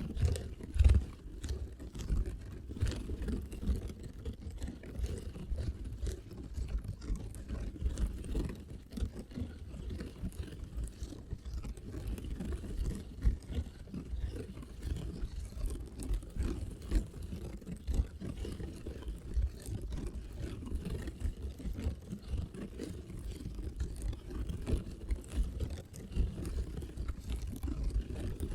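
Fingertips tapping and scratching without pause in a fast, dense run of soft taps and scrapes, mostly low and thuddy.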